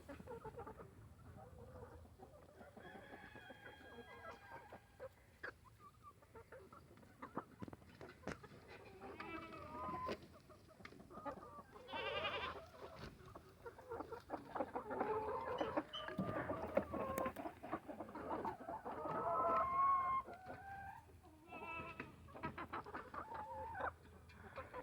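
Chickens clucking and calling, several short calls overlapping, louder and busier in the middle stretch, with scattered light knocks and scratches.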